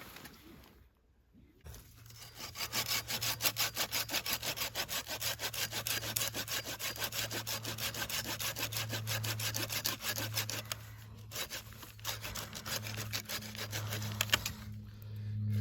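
Hand saw cutting wood with rapid, even strokes, starting about two seconds in, over a steady low hum.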